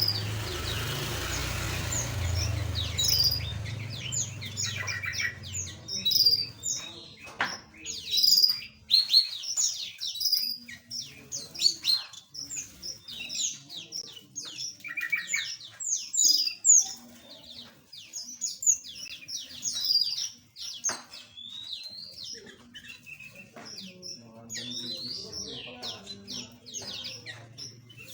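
Many small aviary birds chirping: short, high calls that sweep down in pitch, several birds overlapping and calling steadily. A low rumbling noise sits under the first few seconds.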